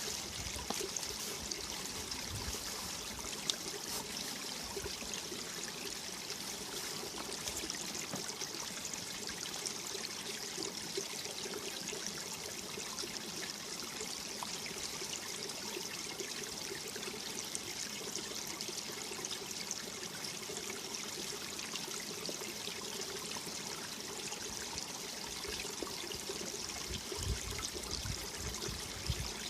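Mountain valley stream flowing and splashing in a steady, unbroken rush.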